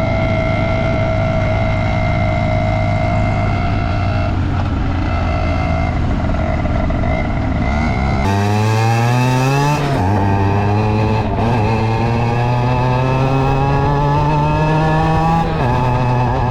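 Suzuki RG50 Gamma's small two-stroke single-cylinder engine running: steady for the first several seconds, then rising in pitch, dropping back about ten seconds in, and climbing again more slowly before dropping near the end.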